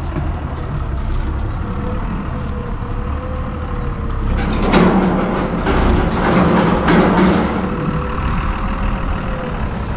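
Forklift engine running while loading firewood crates, with a steady whine over the low rumble. It grows louder and rougher for about three seconds midway.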